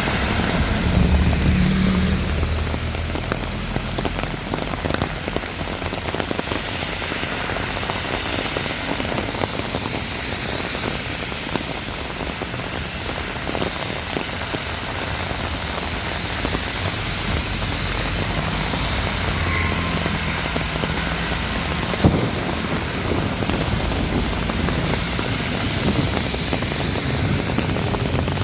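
Heavy rain falling steadily, with a low rumble near the start and again later, and a single sharp knock about 22 seconds in.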